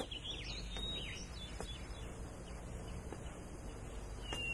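Small birds chirping, a quick run of short calls in the first second or so and one more near the end, over a steady low hum.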